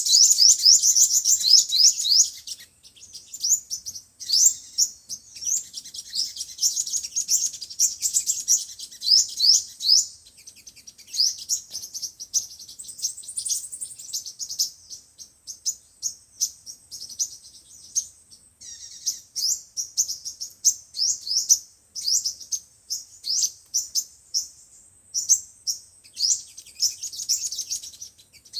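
Sunbird song: rapid series of high, thin chirps and short trills, repeated in bursts with brief pauses, over a faint steady high whine. It is a lure call recording of the kind played through a speaker to attract sunbirds.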